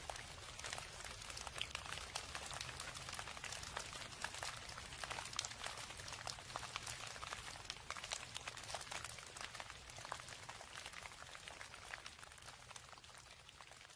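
Rain falling, a dense pattering of many small drops, over a low steady hum; it grows a little fainter near the end.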